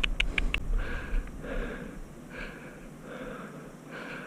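A man breathing hard, in quick, even breaths about one a second, after a quick run of sharp clicks in the first half second.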